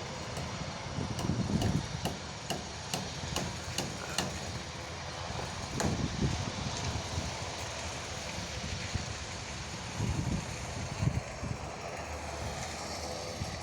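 A run of sharp knocks, about two to three a second, during the first four seconds, with one more a little later, over a steady low rumble.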